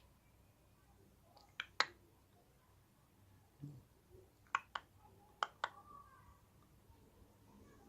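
Three pairs of short, sharp clicks, each pair a fraction of a second apart, with a soft low thud between the first and second pair.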